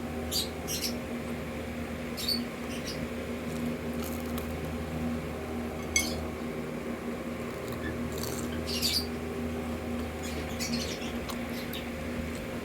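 Close-miked chewing of crispy, flour-battered fried chicken intestine: short crunches in clusters every second or two, over a steady low hum.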